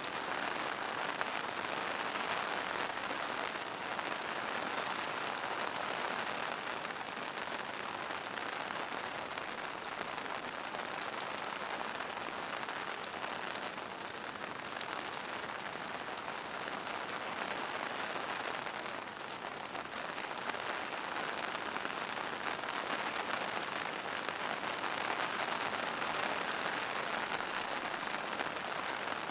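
Steady rain falling on forest foliage and mossy rocks, a dense even patter of drops.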